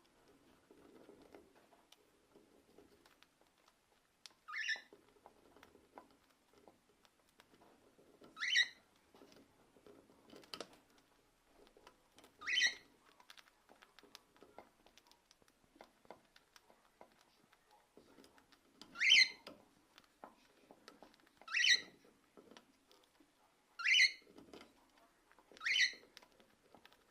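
Cockatiel giving short rising chirps, seven in all, spaced every two to four seconds. Faint clicks and rustling are heard between the chirps.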